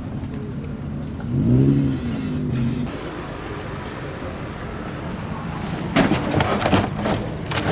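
Car engine running at low revs with a steady exhaust drone. About a second and a half in there is a brief rise and fall in pitch, a light rev. Near the end comes a cluster of sharp knocks and clatter.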